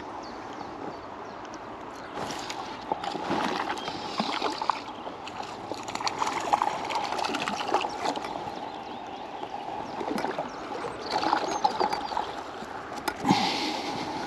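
River water flowing steadily, broken by several short splashes.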